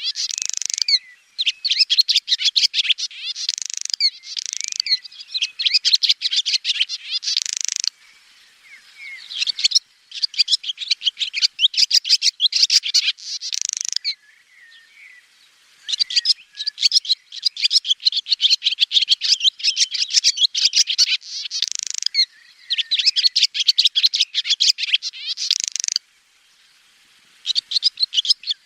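Swallow twittering: fast runs of high chirps and trills lasting several seconds each, broken by short pauses.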